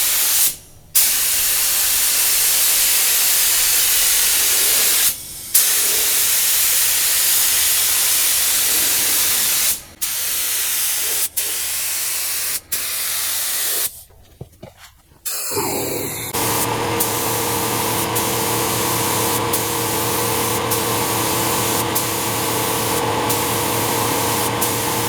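Paint spray gun hissing in long bursts with short breaks as the trigger is let off, laying the first coat of paint on a car. In the second half a steady machine hum runs under the spray.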